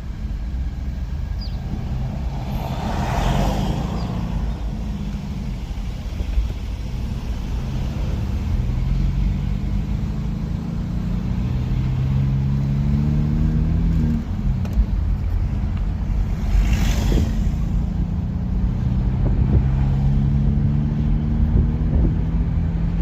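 Car engine running under way, its note climbing, dropping once about fourteen seconds in, then climbing again over a heavy low road rumble. Two brief rushing sounds come about three and seventeen seconds in.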